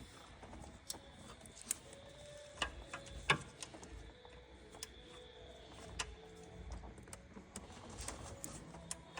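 Scattered sharp clicks and clinks of hand tools and parts against the engine during timing chain work, about a dozen irregular knocks with the loudest about three seconds in, over a faint steady hum.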